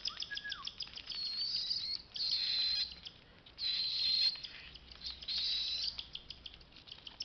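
Cockatiel chicks giving raspy food-begging calls while being hand-fed from a syringe. A rapid chittering opens it, followed by four longer rasping calls about a second or so apart.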